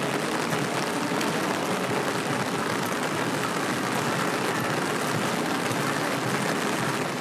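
Steady city street ambience in the rain: an even wash of rain and traffic noise.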